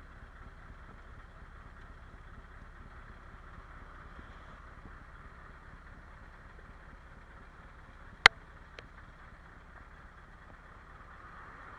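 Scania 144L truck's V8 diesel engine running steadily, heard as a low hum from inside the cab. A single sharp click comes about eight seconds in, followed by a fainter one.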